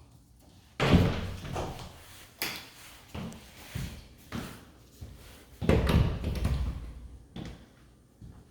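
Doors being opened and shut, with two heavy thuds, one about a second in and one just past the middle, and several lighter knocks and clatters between and after them.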